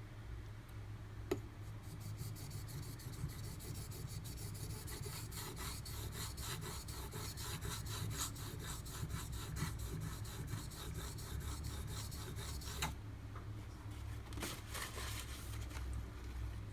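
A steel knife blade (D2) being stroked by hand across a whetstone: a quick, even run of scraping strokes that stops about 13 seconds in, with a light click at each end and a couple more strokes shortly after.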